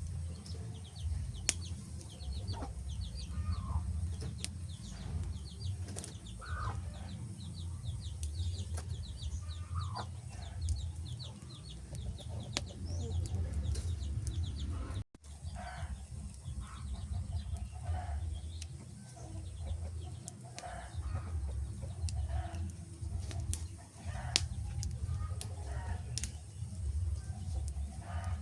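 Wood fire crackling with scattered sharp pops over a steady low rumble, with repeated short animal calls and rapid high chirps in the background.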